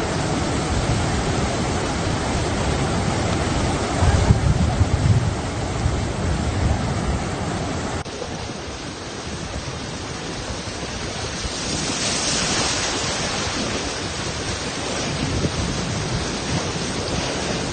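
Floodwater rushing in a steady wash of noise, with gusts of low rumble a few seconds in; the sound changes abruptly about eight seconds in.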